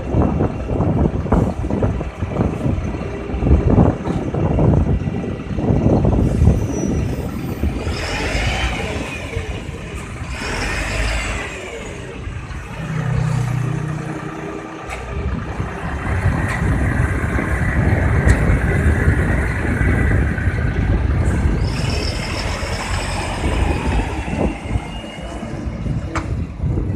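Heavy diesel concrete mixer truck (Nissan UD Trucks CWE 280) running with an irregular rumble, with a couple of brief high squeals about eight and eleven seconds in.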